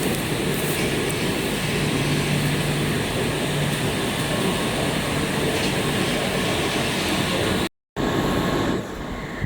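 EPE polyethylene foam sheet extrusion line running: steady, dense machinery noise with a low hum. The sound cuts out completely for a moment about three-quarters through, then comes back quieter near the end.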